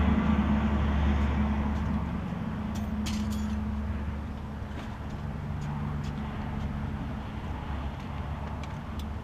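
A low motor rumble that fades gradually over several seconds, with a few light clicks.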